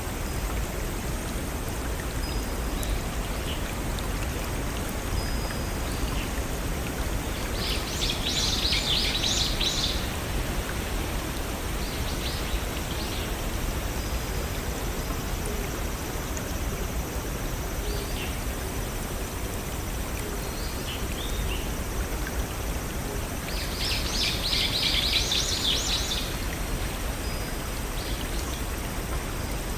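Steady rushing of a small waterfall over a stream. A bird sings a quick, high, trilled phrase twice, about eight seconds in and again near twenty-four seconds, with a few faint short chirps between.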